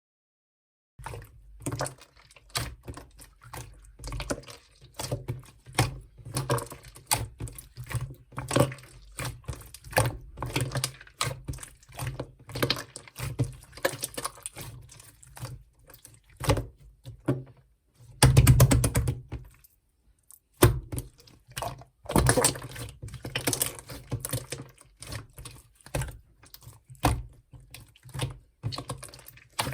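Translucent slime being squished and stretched by hand: rapid, irregular sticky pops and crackling clicks, starting about a second in, with a longer, louder squelch about two-thirds through.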